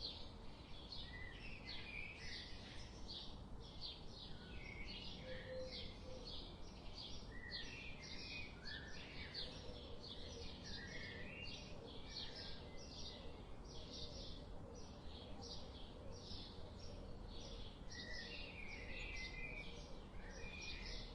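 Small birds chirping steadily: a rapid, overlapping run of short high chirps, with scattered lower notes mixed in, over a faint low hum.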